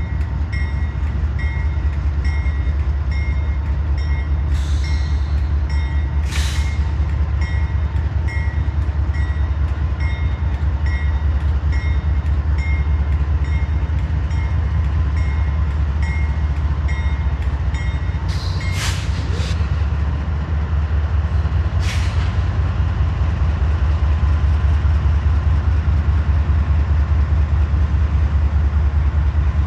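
Freight train rolling past, a steady heavy rumble of wheels on rail, with a bell ringing at an even pace that stops a little over three-quarters of the way through. A few brief sharp high squeals cut through, twice close together near the middle.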